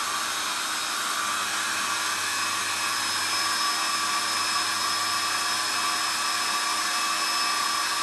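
Small electric blower running steadily at full speed, a constant rush of air with a steady motor whine.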